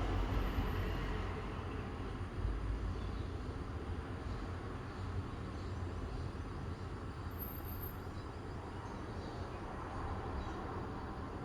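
Outdoor morning ambience: a low rumble, loudest at the start and easing off over the first couple of seconds, under a steady hiss, with faint high chirps from about four seconds in.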